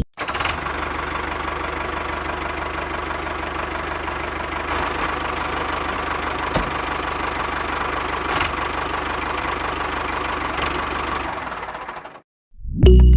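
Miniature homemade engine-driven flour mill running steadily with a rapid, even pulsing, fading out about a second before the end.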